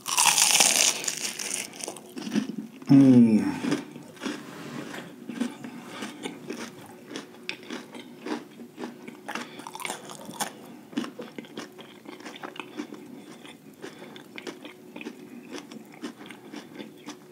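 Close-miked loud crunch of biting into a breaded, deep-fried lobster tail, followed by steady crunchy chewing that tails off gradually. A brief falling vocal sound from the eater comes about three seconds in.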